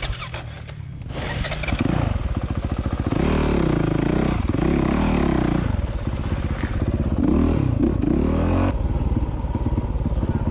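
Motorcycle engine revving while riding, its pitch climbing and falling several times, then dropping to a lower, steadier note near the end.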